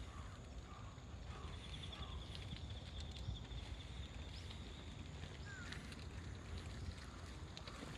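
Outdoor park ambience: a steady low wind rumble on the microphone with scattered short bird chirps and a brief high trill a few seconds in.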